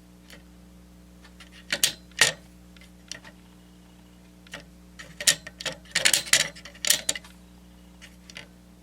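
Plastic clicks and taps of a Milton Bradley Simon game's buttons being pressed: two sharp clicks about two seconds in, then a quick flurry of them between about five and seven seconds. The game gives no tone in answer, a sign that it is still not working after its chip was replaced.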